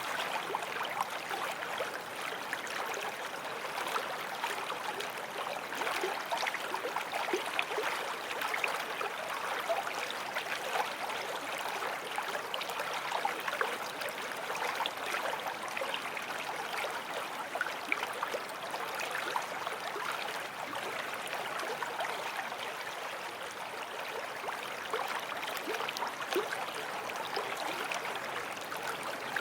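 Forest stream flowing over stones: a steady babble and gurgle of running water, dotted with small splashes.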